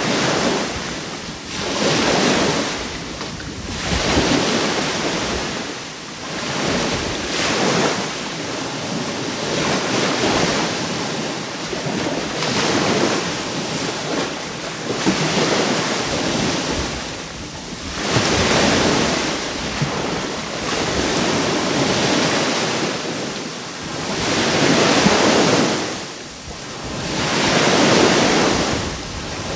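Caribbean sea waves breaking and washing onto the shore, a steady surf that swells and ebbs every few seconds, with wind buffeting the microphone.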